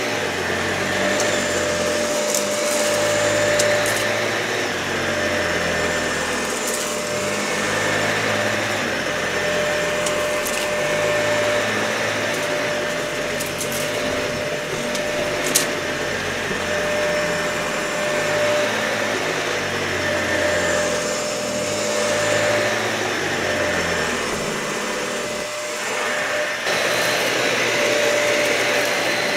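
Dyson vacuum cleaner running over a matted, dirty carpet, a steady motor whine over rushing air, with scattered crackles of debris being sucked up and one sharp click about halfway through.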